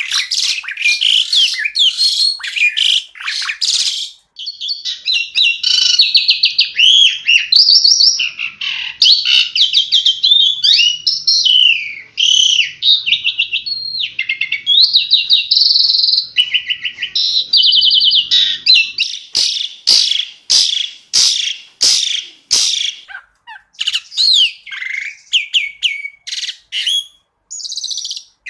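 Asian pied starling (jalak suren) singing a long, varied song of rapid chattering trills and whistled notes. About two-thirds of the way through it gives a run of sharp, sweeping notes a little over half a second apart.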